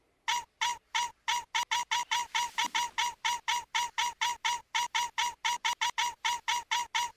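A short, identical squeaky sound repeated rapidly about four to five times a second, like a looped sound effect, quickening slightly near the end.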